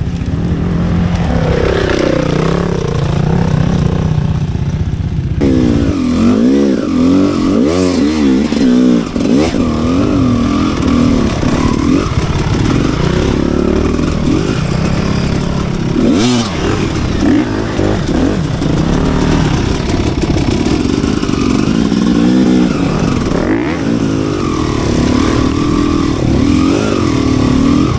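Enduro motorcycle engine under way off-road, its revs rising and falling again and again with the throttle, swinging more widely from about five seconds in.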